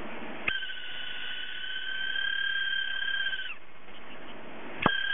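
Hard disk drive's spindle motor with a failing bearing, unable to spin properly, giving a steady high whine like a cat's meow. Each whine starts with a click: one lasts about three seconds and sags as it stops, and a second starts near the end.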